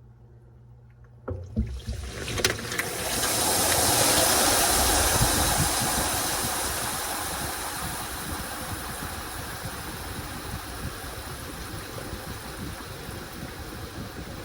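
Washing machine with a load of towels: a few clicks and knocks, then, about two seconds in, a loud rushing hiss of water starts, swells and slowly eases to a steady rush, typical of the machine filling with water.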